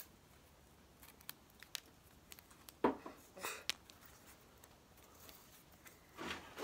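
Scattered light clicks and a few short rustling scrapes, with no engine running.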